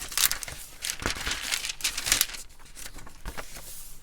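Paper rustling and crinkling as the pages of a handmade junk journal are handled and turned, busiest in the first two seconds and lighter after.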